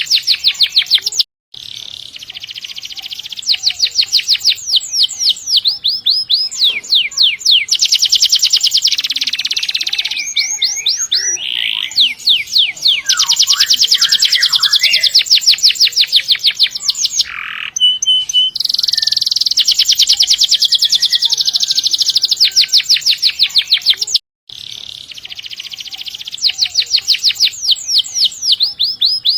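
Domestic canary singing continuously in long rolling trills: fast runs of repeated notes that change to a new trill every second or two. The song breaks off in two short silent gaps, about a second and a half in and again near 24 seconds.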